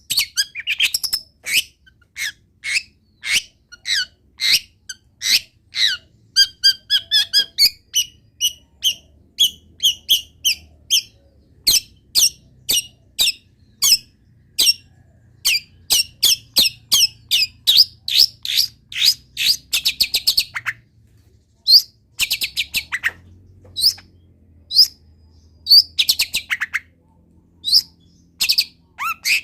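Long-tailed shrike (cendet) singing a fast, varied run of short, sharp, high chips and whistled notes, full of imitations of other wild birds' calls.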